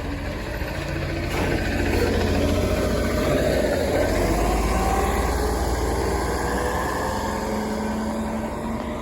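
Blue Bird All American rear-engine CNG school bus driving past. Its engine note grows louder over a couple of seconds and climbs in pitch as it pulls away, then slowly fades.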